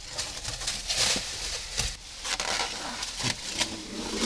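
Thin plastic masking film (masker tape) being peeled off a wall and bunched up. The plastic sheeting crinkles and rustles with irregular crackles.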